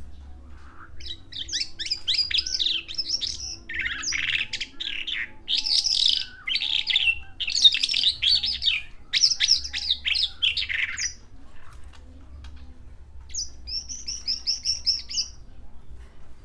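Javan bush lark (branjangan) singing a long, fast, varied song of chirps and trills. After a pause of about two seconds it gives a short burst of quick, evenly repeated high notes.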